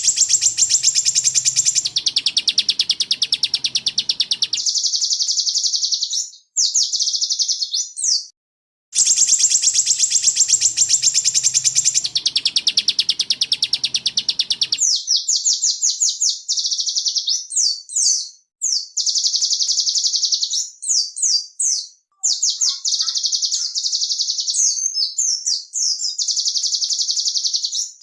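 Small songbirds giving loud, rapid trills and harsh chattering notes, cut together into a looped birdsong tutor recording. Segments start and stop abruptly, and the opening passage repeats about nine seconds in.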